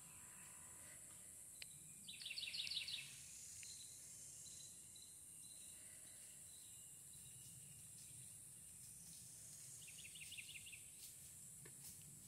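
A bird calls twice, each time a quick run of short repeated notes lasting under a second, about two seconds in and again near ten seconds in. Between the calls, a steady high insect buzz.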